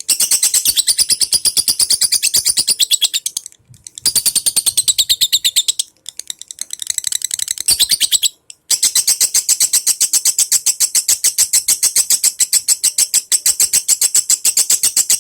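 A lovebird's long, rapid chattering song: runs of high chirps repeated several times a second, broken by three short pauses, about a third of the way in, just before the middle and about halfway through. This is the kind of long chatter that keepers play as a lure to set other lovebirds singing.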